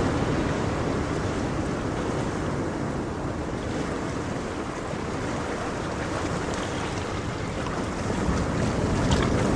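Ocean waves breaking and washing on the shore: a continuous rush that eases through the middle and builds again near the end, with faint crackling as it swells.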